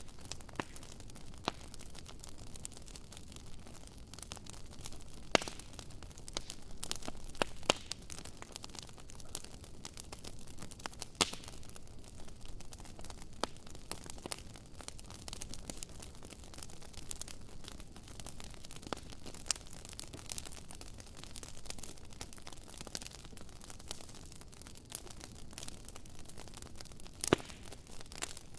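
Wood campfire crackling: a steady hiss scattered with irregular sharp pops and snaps, a few of them much louder than the rest.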